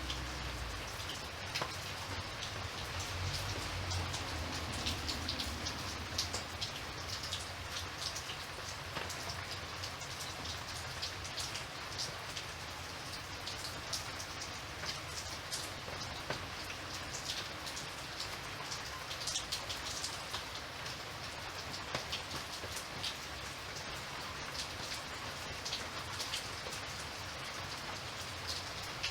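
Steady rain falling, with many small drops ticking on a hard surface.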